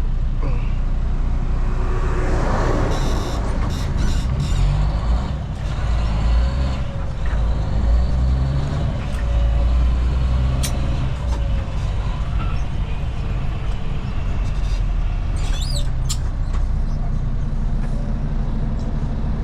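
Semi truck's diesel engine running, heard from inside the cab as a steady low rumble that swells for a few seconds near the middle, with a short burst of hiss about two seconds in.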